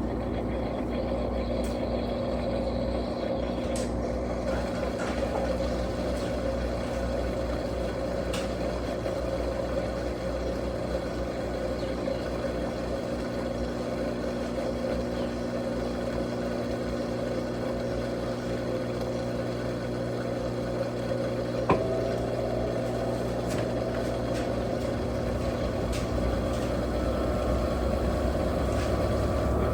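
Electrolux Turbo Capacidade Premium 15 kg top-loading washing machine running with a steady motor hum. A sharp click comes about two-thirds of the way in, after which the hum slowly rises in pitch.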